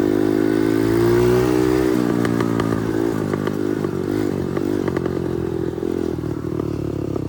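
A 110 cc four-stroke dirt bike engine revs up under acceleration for about a second and a half. Near two seconds the note drops off, and it then runs unevenly at lower revs with a scatter of clattering knocks.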